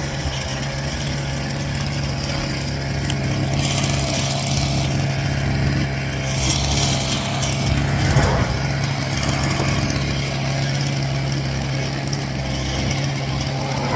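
A 49cc two-stroke gas scooter engine running steadily under way at a constant speed.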